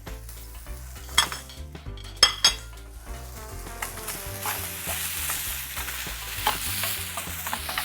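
Flaked fish frying and sizzling in a pan while it is stirred, with a spoon clicking against the pan a few times in the first three seconds. The sizzle grows louder from about three seconds in.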